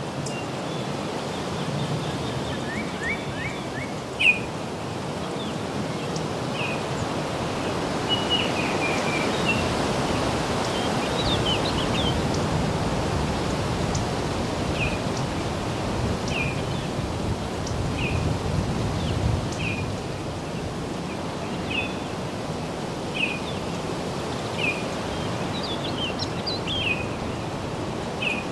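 Small birds chirping over a steady rural background of wind in foliage and distant road hum. From about halfway through, one bird repeats a short chirp about every second and a half. A single sharp knock sounds about four seconds in.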